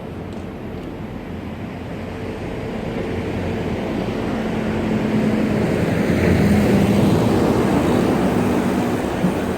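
A road vehicle's engine and tyres passing close by, growing louder to a peak about six to seven seconds in, then fading.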